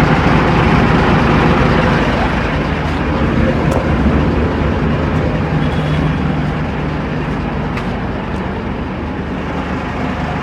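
Mercedes-Benz 1317 tipper truck's turbocharged straight-six diesel engine idling steadily.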